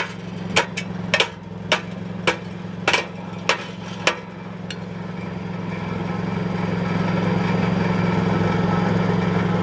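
Nissan Sentra engine idling steadily, with a series of about eight sharp taps in the first four seconds, roughly every half second, from work on the exhaust heat shield and its hose clamps. The idle grows slightly louder after the taps stop.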